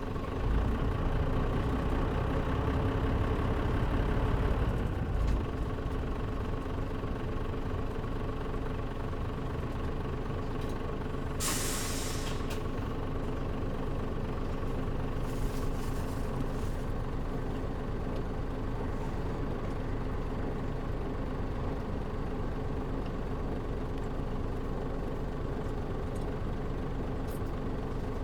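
Mitsubishi Fuso Aero Star (KL-MP37JM) diesel city bus heard from inside the cabin. The engine runs louder for the first five seconds, then settles to a steady idle. About twelve seconds in comes a sharp hiss of released compressed air, and a few shorter hisses follow a few seconds later.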